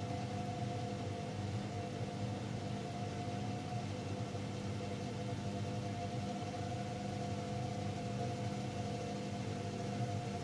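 AEG Lavamat L74810 washing machine running, a steady motor hum with an even whine over it.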